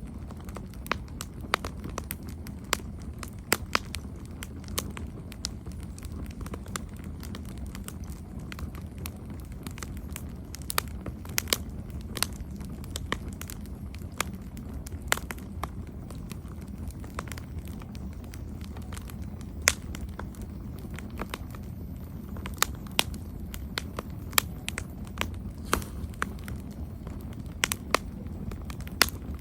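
Campfire crackling: irregular sharp pops and snaps from the burning wood, several a second at times, over a low steady rumble.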